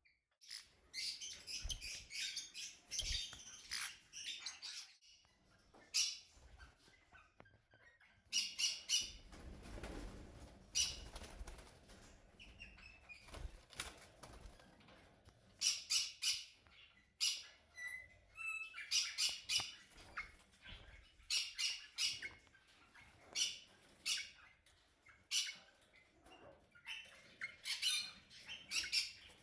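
Small birds chirping and chattering in quick repeated bursts of high notes, with short pauses between the bursts.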